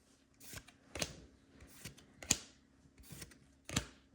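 Pokémon trading cards being flipped through by hand: a series of short, irregular swishes and flicks as the cards of a freshly opened booster pack slide one past another.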